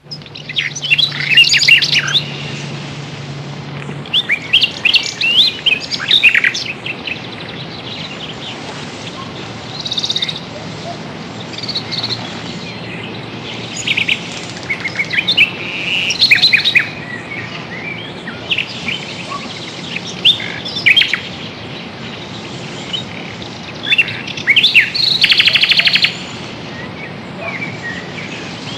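Songbirds chirping and singing over a steady outdoor hiss, in many short calls and whistles, with a fast rapid trill shortly before the end.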